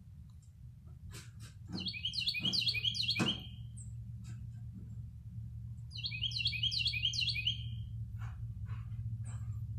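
A bird singing two quick phrases of rapidly repeated, downward-sweeping chirps, one about two seconds in and one about six seconds in. A steady low hum runs underneath.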